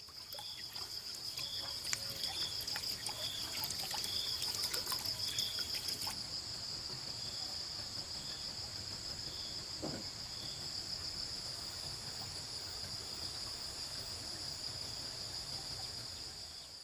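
Insect chorus: a steady, high-pitched, fluttering buzz, with a short chirp repeating about once a second in the first six seconds and more faintly after.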